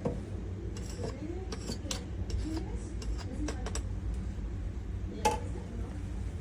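Kitchenware and machine parts being handled: a string of light clicks and clinks, with a sharper knock about five seconds in, over a steady low hum.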